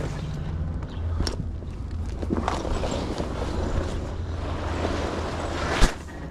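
Steady low rumble of an idling diesel semi truck, with wind on the microphone and the rustle of a tarp being handled; a few light clicks, and a sharp knock near the end.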